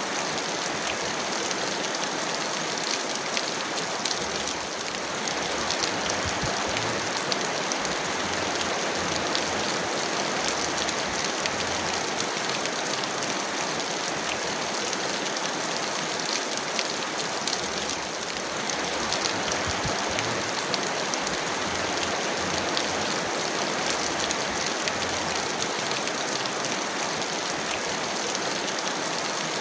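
Heavy rain falling steadily: a dense, even hiss of water flecked with fine drop patter. It eases very slightly twice, about 4 seconds in and again about 18 seconds in.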